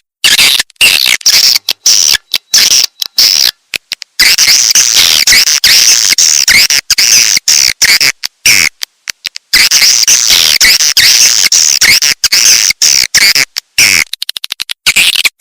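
Edible-nest swiftlet calls from a lure recording of the kind played to draw swiftlets to a nesting house: dense, high twittering chirps, chopped again and again by abrupt short silences. Near the end the chirps break into a rapid run of short pulses, about ten a second.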